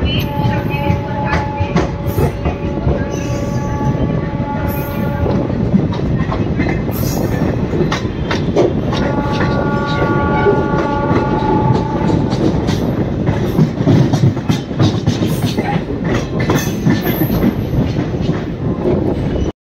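Bareilly–Varanasi Express passenger train running at speed, heard from aboard: a steady rumble and rattle with rapid clicking of wheels over rail joints. Twice a drawn-out pitched tone rides over it for several seconds, first about half a second in and again about nine seconds in.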